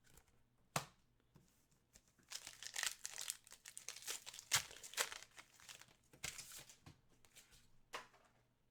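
Plastic wrapper of a trading-card pack crinkling and tearing as it is opened and handled, in two spells lasting a few seconds and about a second. Card handling adds a few sharp clicks.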